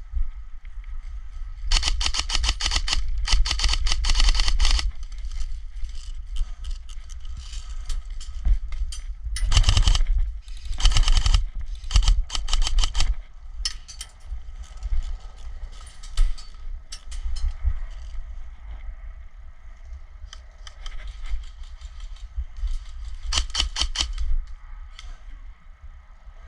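Airsoft guns firing rapid full-auto bursts, each about a second long: two around the start, three close together around the ten-second mark, and one more near the end. A steady low rumble runs underneath.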